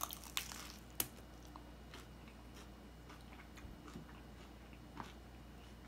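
Biting into a hard corn taco shell, with a few sharp crunches in the first second, the loudest about a second in, then quiet chewing with occasional small crunches.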